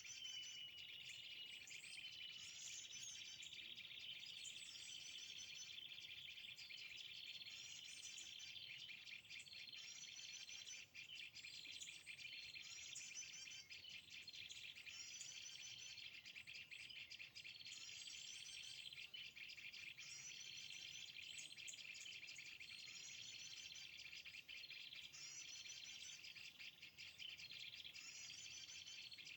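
A small bird's short, high twittering phrase repeating every one and a half to two seconds, over a steady chorus of crickets or cicadas. Everything is faint.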